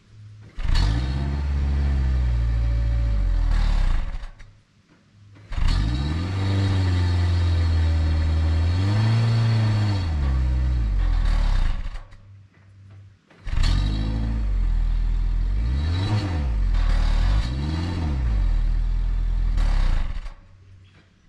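Ford Escape SUV's four-cylinder petrol engine at full throttle in three acceleration runs, each separated by a short quiet gap. The engine note climbs and then holds high. In the last run the pitch dips and climbs again twice.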